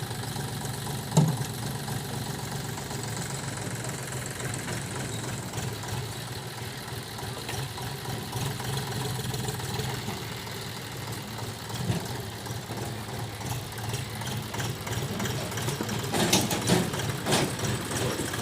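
Diesel engine of heavy earth-moving machinery running steadily. There is a single sharp knock about a second in, and a short run of clanking near the end.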